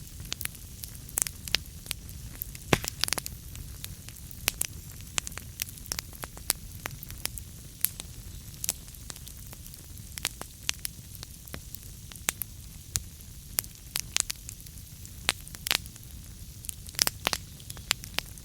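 Wood fire burning in a fireplace: logs crackling with sharp irregular pops over a steady low rumble of the flames, with a quick cluster of pops near the end.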